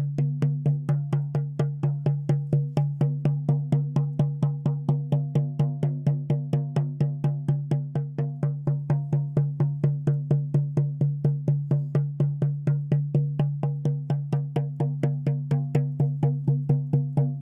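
A shaman's frame drum beaten steadily at about four beats a second, each stroke ringing with a deep boom.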